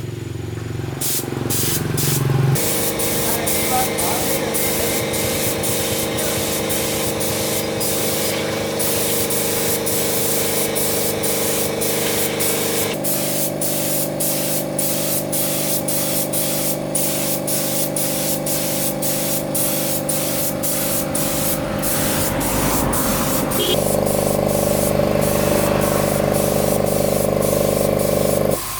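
Steady spray hiss, as from spray-painting motorbike parts, with frequent short clicks. Sustained tones underneath change pitch abruptly three times.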